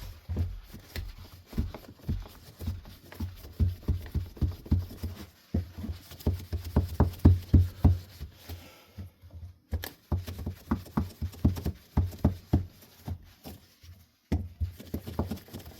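Handling noise: many irregular soft knocks, bumps and clicks, as of things being rummaged through and moved about by hand.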